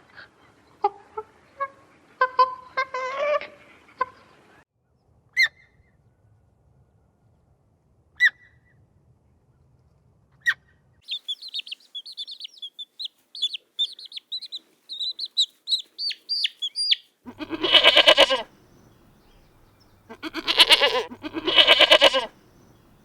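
Farm birds calling: scattered short calls at first, a long run of rapid high chirps in the middle, then two loud, harsh calls near the end.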